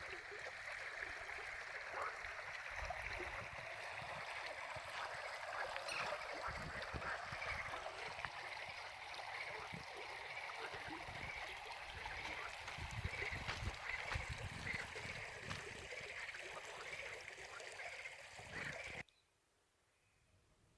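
Stream water rushing steadily, with occasional low rumbles underneath. It cuts off abruptly near the end, leaving a few faint high chirps.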